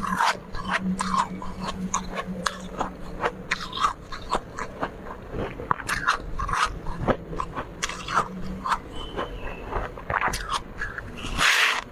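Close-miked chewing and crunching of soft, powdery freezer frost: a dense run of small, irregular crackling crunches, with one longer, louder crunch near the end.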